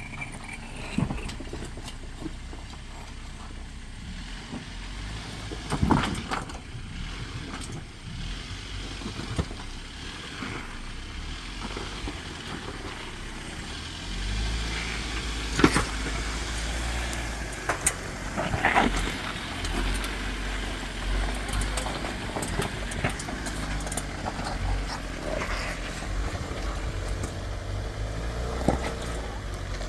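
Jeep Wrangler Unlimited Rubicon (JLU) engine running with a steady low rumble that gets louder about halfway through. A few sharp knocks and clunks stand out, the loudest about a quarter of the way in and just past halfway.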